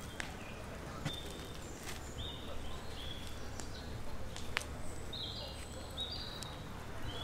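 Small birds chirping in short, repeated high notes over a low steady background hum, with a few sharp clicks scattered through.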